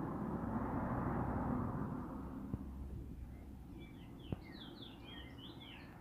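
Caged bullfinch twittering: a quick run of short chirps in the second half, over a low rumble that fades away.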